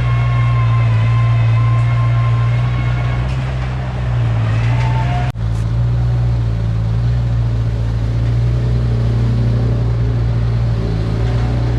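Heavy construction machinery's diesel engine running steadily under load, with a high whine over the engine in the first few seconds. The sound breaks off for an instant about five seconds in.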